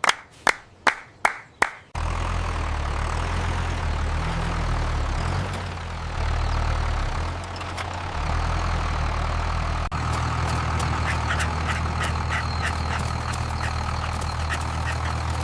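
Several sharp knocks, about two or three a second, then a tractor engine suddenly starts running with a steady low drone that dips briefly midway. Later a light rapid ticking rides on top of it.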